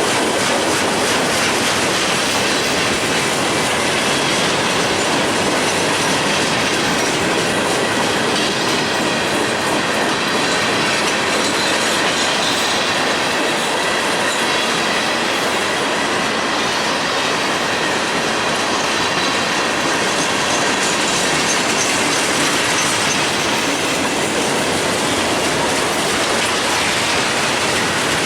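Mixed manifest freight train rolling past, steel wheels clattering and squealing on the rails in a loud, steady rush of noise.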